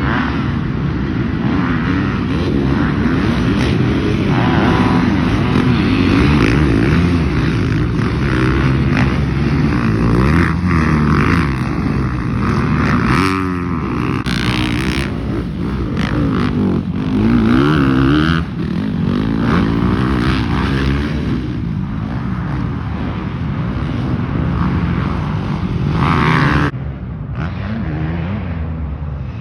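Motocross dirt bike engines revving, their pitch rising and falling again and again as the riders work the throttle through the track.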